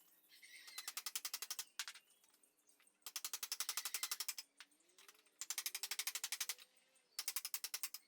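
Rapid mechanical clicking in four runs of about a second each, roughly a dozen clicks a second, with a single click between the first two runs.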